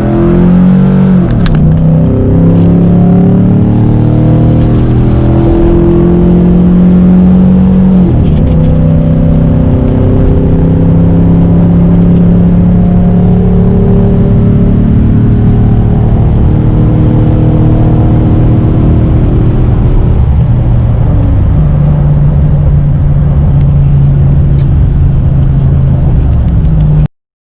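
A 2013 Chevy Silverado pickup with a Thrush welded aftermarket muffler accelerating hard while pulling a trailer. The engine note climbs, then drops back at each upshift, about eight and twenty seconds in, and the sound cuts off suddenly near the end.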